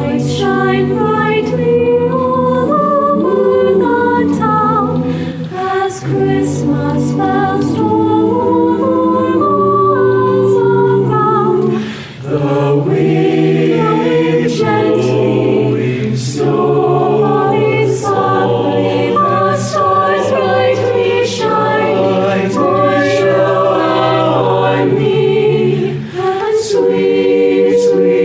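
High school madrigal choir singing a holiday carol in several parts, with a brief pause between phrases about twelve seconds in.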